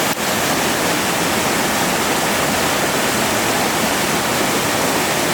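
Waterfall cascade pouring, a steady loud rush of water across all pitches, with a momentary dropout just after the start.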